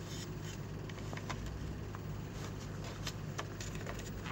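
Scattered faint clicks and taps of the opened electric air blower's parts and cable being handled, over a steady low hum.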